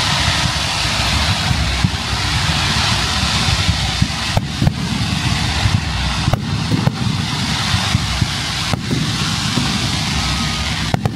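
Fireworks display: fountain fireworks hiss steadily over a low rumble, and aerial shells burst with sharp bangs several times from about four seconds in.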